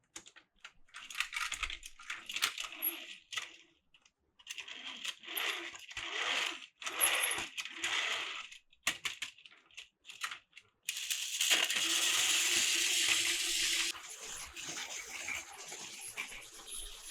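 Hard plastic toy pieces clattering and rattling as they are handled, in irregular bursts. A steadier, louder rattle runs for about three seconds past the middle.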